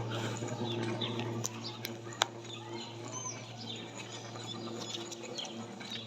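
Faint, scattered short bird chirps, high-pitched, over a steady low hum, with one sharp click about two seconds in.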